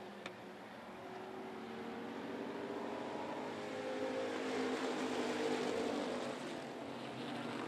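Engines of several Enduro-class stock cars racing on a dirt oval. The pack grows louder and peaks about five to six seconds in as it passes, then eases off a little.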